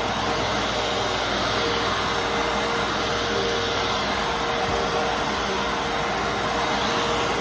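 Fantom Fury Special Edition bagless vacuum cleaner running steadily: a constant rush of air with a steady motor whine.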